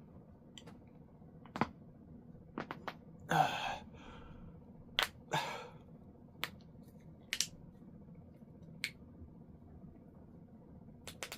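Scattered small clicks and taps, about eight in all, with a short breathy rustle about three and a half seconds in.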